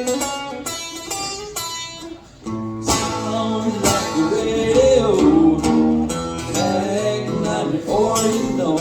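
Live country music, an instrumental break on acoustic guitar. Single picked notes come first; about three seconds in it turns louder and fuller, with strummed chords, a low bass line and a melody line that bends in pitch.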